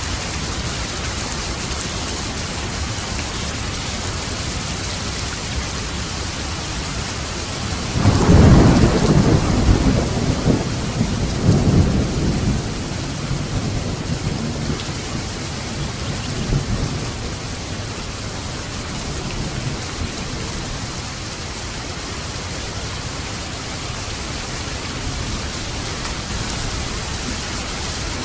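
Steady heavy rain, with a clap of thunder about a third of the way in that rumbles and rolls for several seconds before fading back under the rain.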